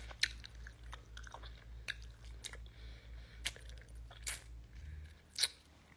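Close-up mouth sounds of someone biting and chewing wax candy: irregular soft crunches and clicks. A low steady hum underneath stops about five seconds in.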